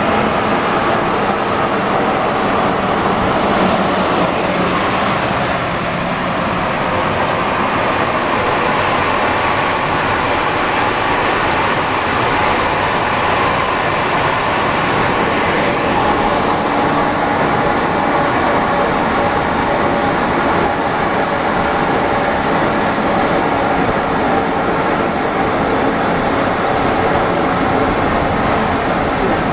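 Alstom NS-74 rubber-tyred metro train running steadily, a continuous rolling noise with faint steady whines from its motors and equipment.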